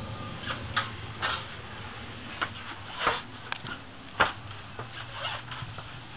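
Irregular clicks and knocks over a low steady rumble: an Intercity train's wheels clacking over rail joints and switches as it rolls slowly into a station. The sharpest knock comes about four seconds in.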